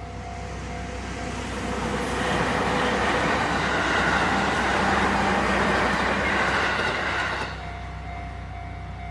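A train passes over a Japanese level crossing: its running noise builds from about two seconds in and stops fairly suddenly near the end. Underneath, the crossing's warning bell keeps ringing, heard plainly before and after the train.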